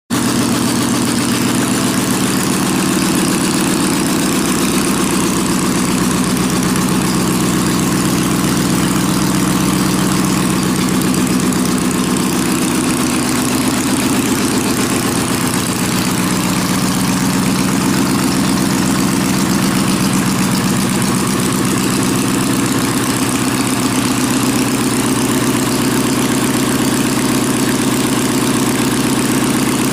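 Volkswagen engine running steadily at idle on its first run.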